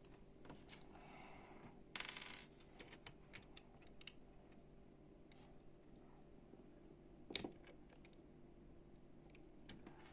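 Faint clicks of small plastic Lego pieces being handled and pressed together, with a short rattle about two seconds in and a sharper click a little past seven seconds.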